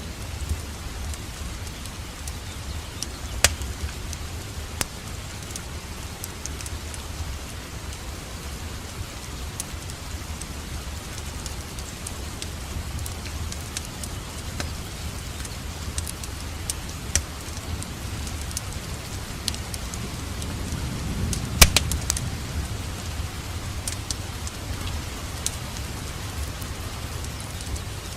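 Steady rain with a wood fire crackling over it: scattered sharp pops and snaps above a continuous hiss and low rumble, with a brief cluster of louder pops about three-quarters of the way through.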